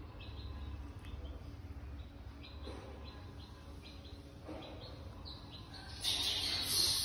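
Faint, scattered bird chirps over a low steady hum, with a louder hiss starting near the end.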